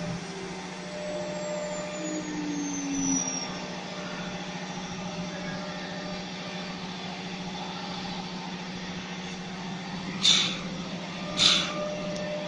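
CNC router running with a steady hum, and a faint falling whine over the first few seconds. Near the end come two short, loud hisses about a second apart.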